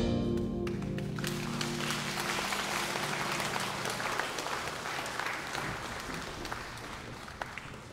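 The final chord of a chamber ensemble with guzheng dies away over the first few seconds as audience applause takes over, gradually getting quieter.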